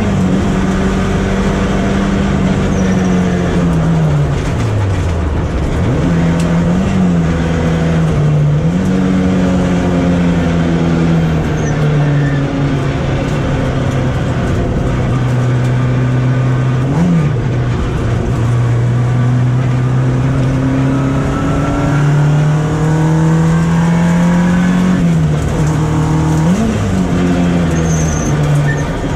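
VW Golf Mk1 race car's engine heard from inside the car, its revs slowly climbing and falling, with one deep drop about four seconds in and several quick rev blips.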